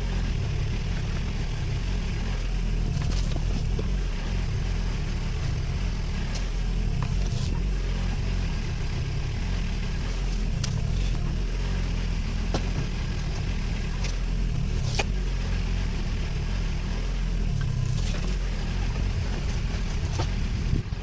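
An engine running steadily with a low rumble, with a few sharp clicks and knocks now and then.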